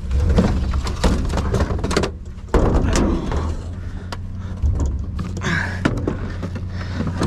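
Repeated knocks, clunks and clatter of hard objects being handled and shifted, with a louder clattering stretch about two and a half seconds in, over a steady low hum.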